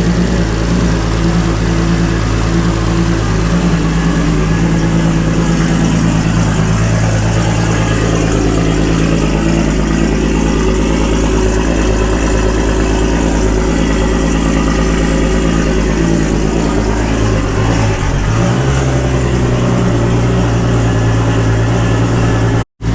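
Lexus SC300's engine idling loud and steady through a 4-inch straight-pipe exhaust on its first start after the rebuild. The idle pitch shifts slightly about eighteen seconds in, and the sound breaks off for an instant near the end.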